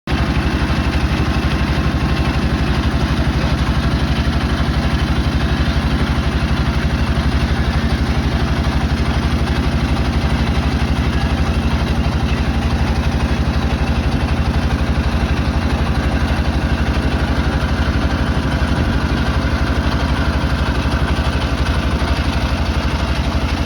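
A boat's engine running steadily, with an even, rapid chugging.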